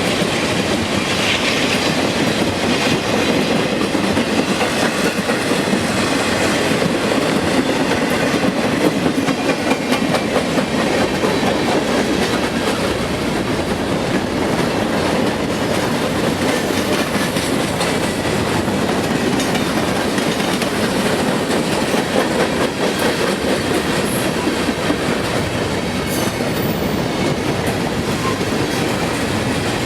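Freight train cars rolling past, wheels clattering steadily over rail joints, with faint wheel squeal at times.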